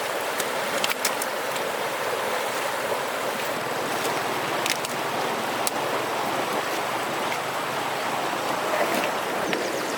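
Steady rush of running water, with a few sharp clicks or knocks scattered through it.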